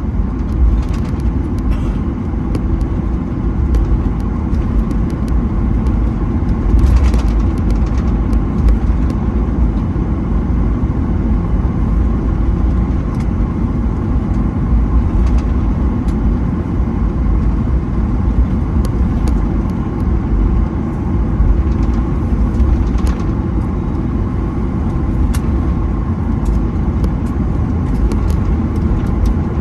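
Cabin noise of a Boeing 737-900ER taxiing after landing: a steady low rumble from the idling CFM56 engines and the rolling airframe, with a few light clicks and rattles.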